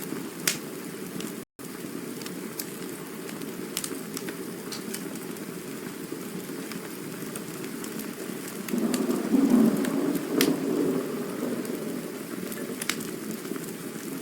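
Campfire burning: a steady low rush of flames with scattered sharp crackles and pops, swelling louder for a couple of seconds past the middle. A split-second dropout to silence comes about a second and a half in.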